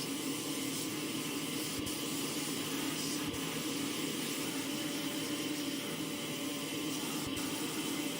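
A steady machine noise, a continuous hum with an even hiss over it and a few faint clicks.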